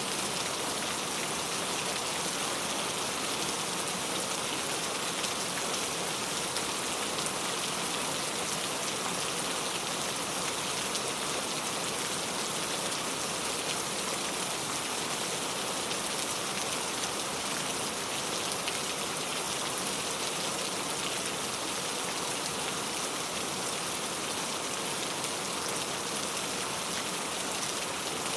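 Steady rain falling and pattering on surfaces, with fine drop ticks in an even hiss.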